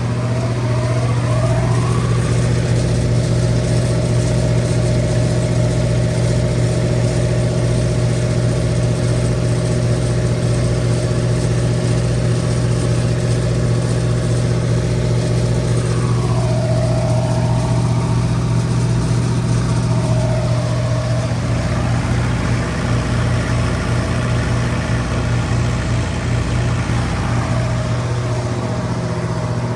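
Isuzu BV-4LE1 four-cylinder diesel engine of a Winpower DR20 20 kW generator set running at a steady governed speed inside its sound-attenuated enclosure, giving a constant low hum.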